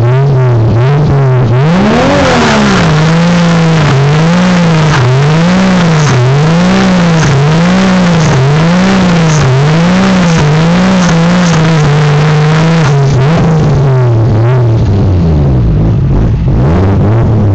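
Lexus SC300's turbocharged 2JZ-GE inline-six (NA-T conversion) revved through a homemade catless 3-inch exhaust with an N1 muffler. One rev comes about two seconds in, then a run of quick rhythmic blips about one a second, a steady hold at raised revs, and a drop back to idle near the end.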